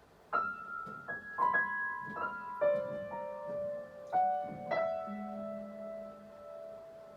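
Piano keys pressed at random by a kitten walking on the keyboard: about ten single notes and small clusters struck at irregular moments, each ringing on into the next, with no melody or steady beat.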